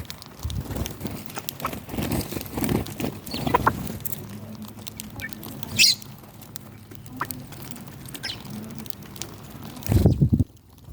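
Backyard chickens pecking at feed and murmuring low, with a few short, high chirps from the small birds among them. There is a brief low thump about ten seconds in.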